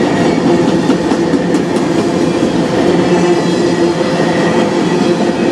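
Freight cars of a manifest train rolling past at close range: a steady, loud rumble and rattle of steel wheels on the rails.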